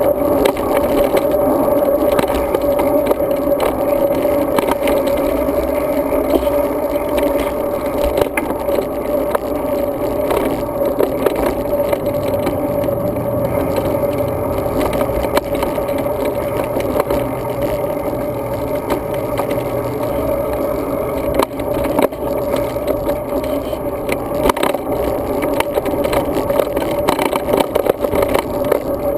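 Road bike riding, heard through a GoPro Hero 2 camera on the bike: a steady, muffled rumble of tyres and passing air, with frequent small rattles and clicks from the bike and the mount.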